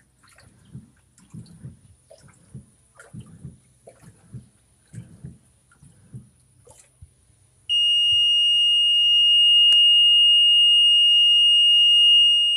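Sharp ESP689 washing machine giving a run of low thumps about once a second. A little past halfway its error alarm comes on as one loud, steady, high-pitched tone, signalling the LE error code.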